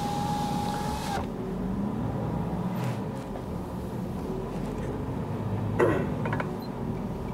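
Truck engine running steadily, heard from inside the cab. A steady high tone with hiss cuts off about a second in, and a short falling sound comes near the end.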